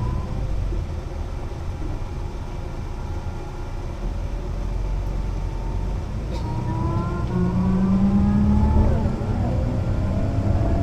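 Mercedes-Benz O 405 NÜ bus's diesel engine running steadily, then from about six seconds in pulling away with a rising whine. The pitch drops briefly near nine seconds as the gearbox shifts up, then climbs again.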